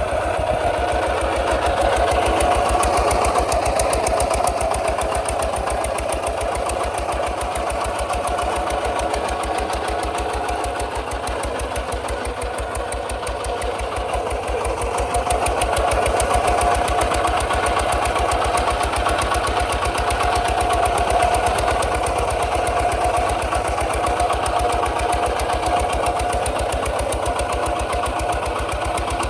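Kubota RT 140 DI single-cylinder diesel engine running steadily with a fast, even chug, its loudness swelling slightly now and then.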